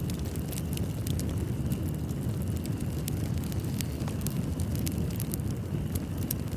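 Wood fire burning in a fireplace: a steady low roar with many small, sharp crackles and pops scattered irregularly throughout.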